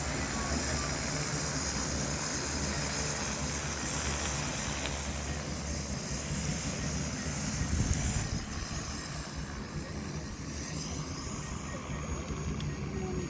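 Agricultural multirotor drone in flight, its propellers giving a steady low hum under a high hiss, a little quieter after about eight seconds.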